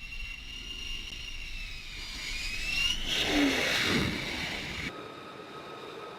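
F-35C jet engine whining steadily on a carrier flight deck; the whine rises in pitch and swells into a loud rush of jet noise. That sound cuts off abruptly near the end and is followed by a different, quieter steady whine.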